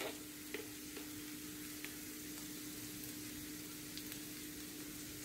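Sliced onions, crushed garlic and green chillies sizzling quietly in oil in a frying pan, with a steady hum beneath and a few faint clicks.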